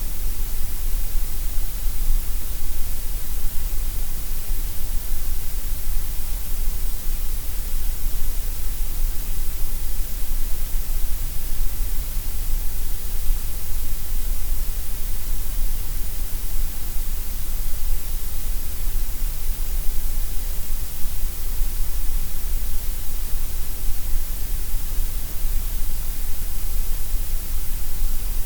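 Gray noise: a steady, unchanging electronic hiss, strongest in the low bass and the top treble with a dip in the middle, as generated for sleep sounds.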